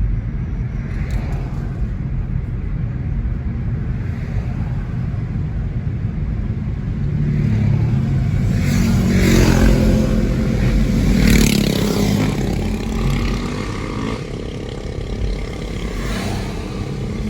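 Car driving, heard from inside the cabin: a steady low engine and road rumble that swells for a few seconds about halfway through as the car speeds up, then settles again.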